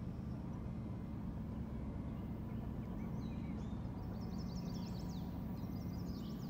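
Low steady rumble of an approaching freight train's diesel locomotives, still out of sight. A small bird chirps in quick runs from about three seconds in to near the end.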